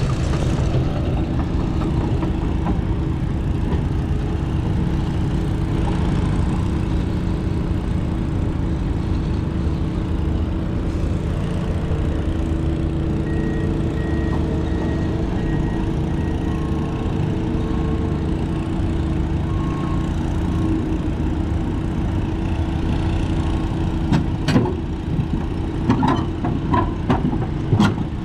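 Heavy diesel engine idling steadily, with faint, evenly spaced beeping in the middle and a few sharp knocks near the end.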